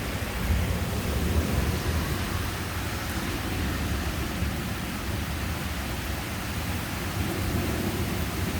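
Heavy rain and strong wind in a thunderstorm: a steady, loud hiss over a continuous deep rumble.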